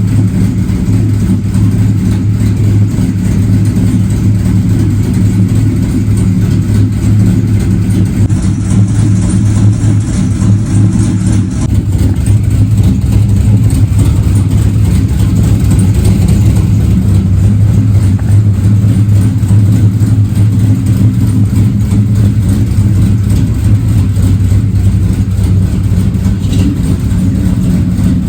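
A vehicle's engine running steadily, a constant low drone with no clear revs or stops.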